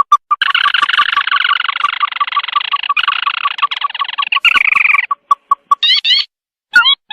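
Recorded lure call of the bird known in Indonesia as sintar mata merah: a fast run of short clipped notes turning into a dense, harsh chattering for several seconds, then a few quick rising notes near the end. It is played to draw the birds in, a bird-trapping lure.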